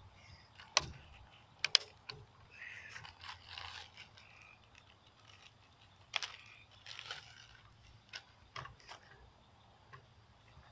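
Handling noise from a pellet gun being readied between shots: scattered faint clicks and scraping, with sharper clicks about a second in and again a little past six seconds.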